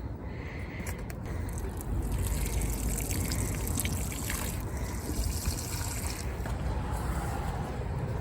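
Steady trickle of running water, a little louder from about two seconds in.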